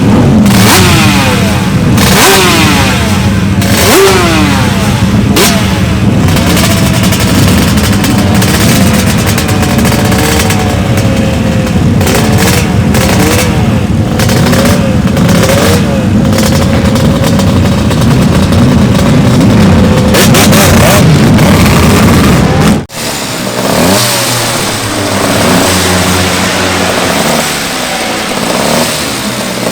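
Two-stroke racing motorcycle engines revving hard, their pitch repeatedly rising and falling, with more than one engine at a time. The sound drops away suddenly about 23 seconds in, then quieter revving carries on.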